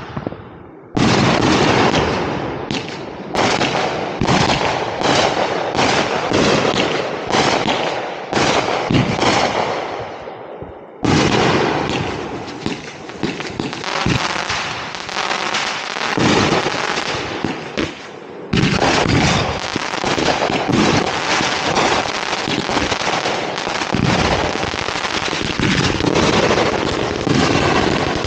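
Ground-launched fireworks going off in rapid, near-continuous volleys of bangs and crackles, starting about a second in, with short breaks about ten and eighteen seconds in.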